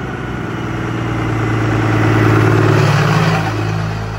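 A motor vehicle's engine running at a steady low pitch as the vehicle rolls slowly right over a phone lying on the ground. It grows louder to a peak a little past halfway, with a rushing noise as the underside passes overhead, then drops off near the end.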